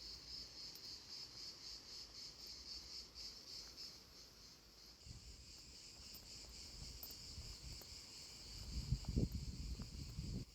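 Crickets chirping in a high, pulsing rhythm of about four pulses a second, changing to a steadier trill about five seconds in. Low rumbling thumps rise near the end.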